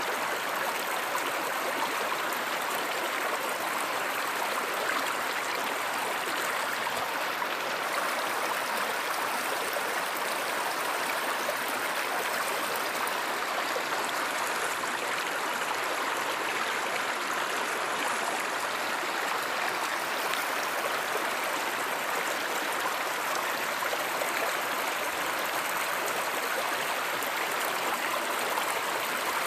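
Stream or river water flowing with a steady, even rush.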